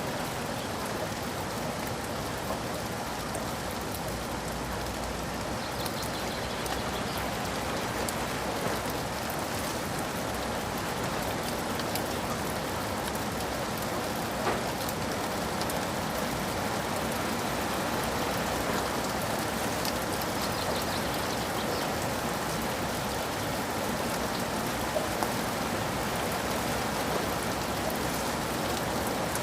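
Steady rain falling, a dense even patter of drops on surfaces, with a few sharper single drops standing out.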